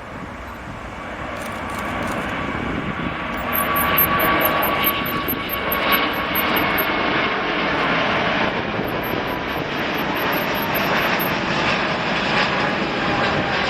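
Jet airliner engines running, the roar building over the first few seconds and then holding loud and steady, with a whining tone on top.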